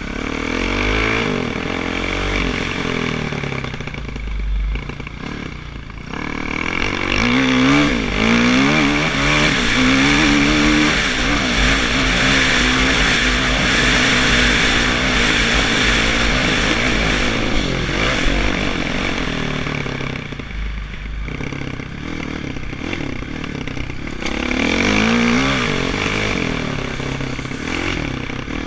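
Kawasaki KX450F dirt bike's four-stroke single-cylinder engine being ridden hard, its pitch repeatedly climbing and dropping as it is revved up through the gears. The throttle eases off briefly about five seconds in and again about twenty seconds in.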